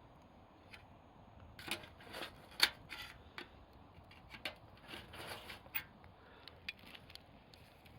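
Campfire crackling: irregular sharp pops and snaps over a faint hiss, coming thickest between about two and six seconds in.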